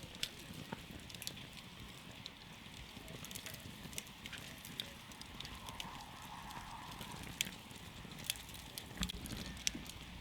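Campfire burning, its wood crackling with sharp, irregular pops over a steady low rush of flame.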